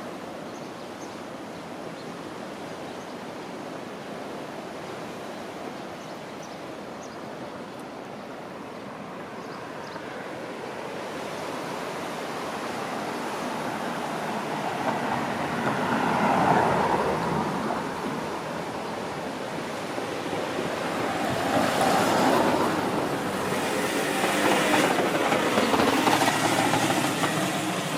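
Road traffic on a seaside street: a steady wash of noise with three vehicles passing, each swelling and fading over a few seconds, about halfway through and twice near the end.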